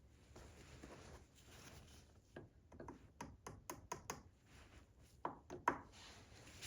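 Light clicks and metallic taps of hand tools and small metal parts being handled, with a quick run of about ten taps in the middle and a few louder ones near the end.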